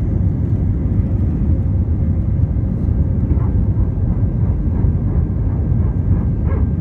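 Jet airliner heard from inside the cabin during takeoff: a loud, steady low rumble of engines and airflow.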